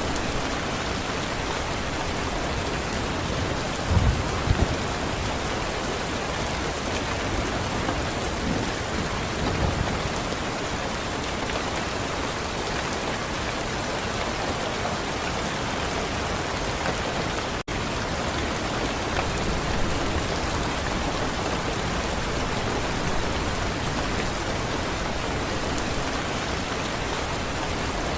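Steady, heavy rain falling on a surface, an even hiss with a few short low thumps in the first third. The sound cuts out for an instant about halfway through.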